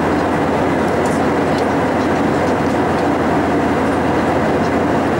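Steady cabin noise of an Airbus A320-232 in cruise flight: an even rush of airflow mixed with the drone of its IAE V2500 engines.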